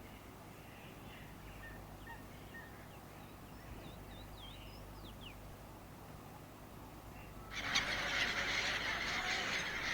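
Faint scattered bird chirps and short calls that slide up and down in pitch. About three-quarters of the way through, a much louder, dense hiss cuts in suddenly.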